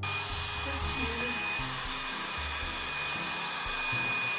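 Hand-held hair dryer switched on and blowing steadily: an even rush of air with a thin high whine.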